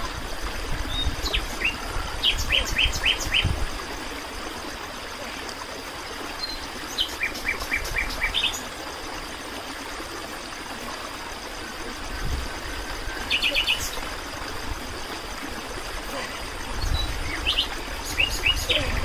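Birds calling in short runs of rapid chirps, repeated about four times, over a steady background hiss.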